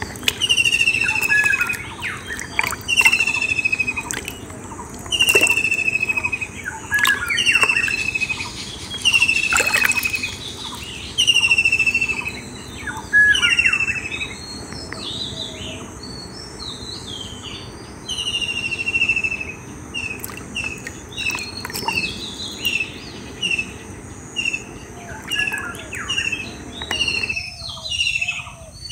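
Several birds calling, one repeating a short whistled note that falls in pitch about once a second, with other chirps overlapping.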